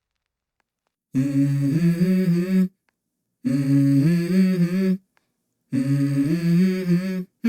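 Music: a wordless hummed vocal phrase on held, stepping notes, heard three times with short silent gaps, after about a second of silence.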